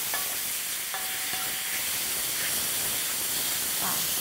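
Diced pork and green onion sizzling steadily in hot oil in a wide pan, stirred with a wooden spoon, with a couple of brief scrapes about a second apart near the start.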